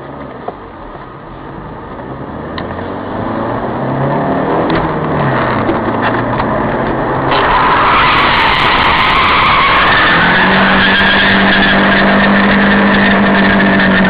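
Car engine accelerating hard with tyre noise. It grows steadily louder over the first several seconds, then runs loud and steady with a held tone near the end.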